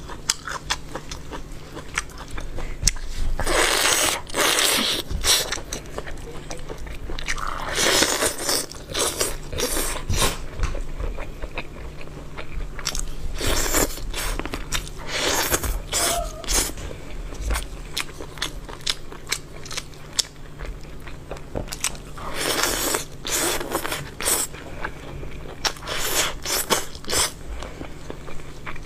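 Close-miked biting and chewing of chicken: loud crunchy bites every few seconds, with wet chewing clicks and smacks between them.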